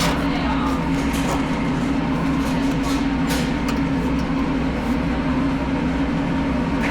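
A steady, loud mechanical hum, with a few short clicks about three seconds in.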